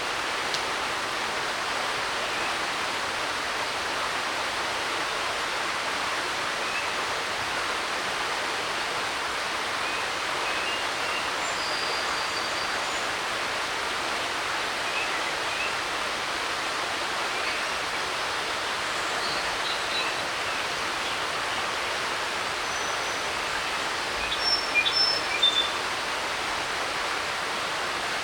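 Creek running in a steady hiss like TV static, with scattered bird chirps above it and a short burst of louder chirping near the end.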